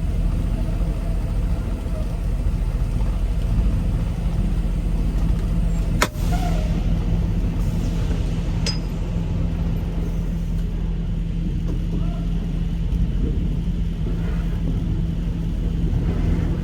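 Semi-truck diesel engine running steadily with a low, even drone, and a single sharp click about six seconds in.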